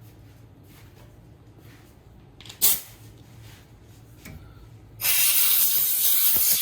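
A compressed-air blowgun starts about five seconds in with a loud steady hiss, blowing dirt away from the engine so no debris gets into the crankcase. Before it come quiet handling sounds and one sharp knock.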